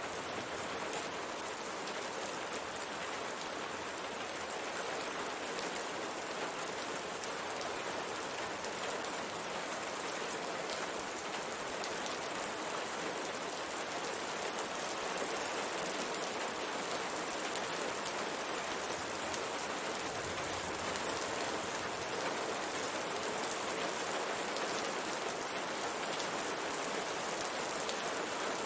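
Steady rain on window glass: an even hiss of rainfall with scattered drop taps. It gets slightly louder about halfway through.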